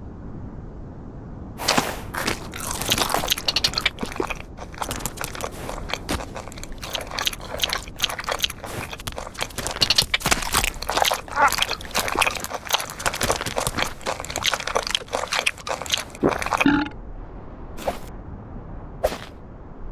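Cartoon chewing sound effects: rapid, crunchy bites and munching for about fifteen seconds, trailing off into a couple of single crunches near the end.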